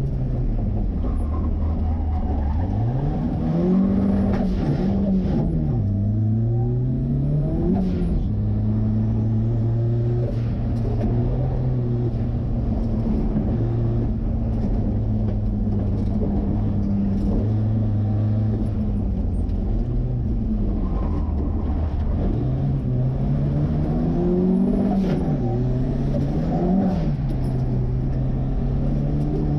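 Turbocharged Ford 2.3L four-cylinder engine in a 1963 Volvo Amazon running hard on an autocross course. Its revs climb and drop several times and hold steady in between.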